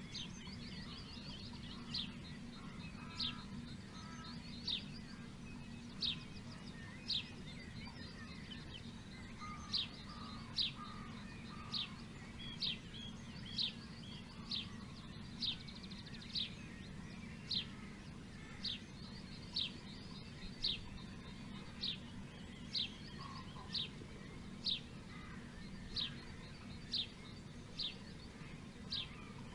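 Songbird calling over and over in short, sharp, downward-sliding notes, about one a second, with fainter twittering from other birds. A steady low hum runs underneath.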